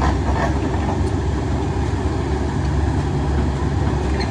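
Large diesel engine of heavy construction machinery running steadily with a low drone.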